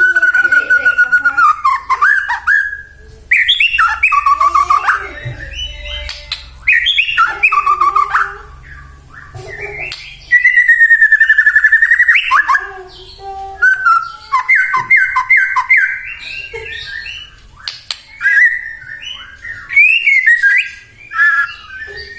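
White-rumped shama (murai batu) singing a varied song of loud whistled phrases that glide up and down, with a rapid trill about ten seconds in and a run of quick repeated notes a few seconds later.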